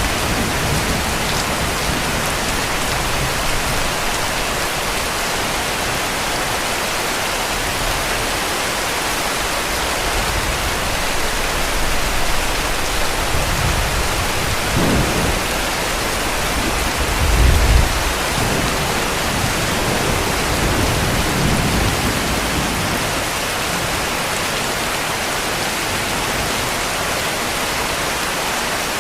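Heavy, steady rain with a few low rumbles of distant thunder, the strongest a little past the middle.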